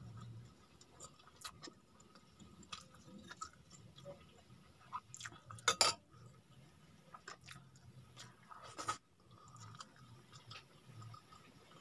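Faint chewing and wet mouth sounds of someone eating rice by hand, with scattered small clicks, the sharpest about six and nine seconds in.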